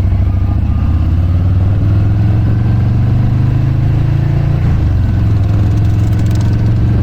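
Harley-Davidson motorcycle's V-twin engine running loud under way. Its pitch rises slowly, dips briefly about two-thirds of the way through, then climbs again.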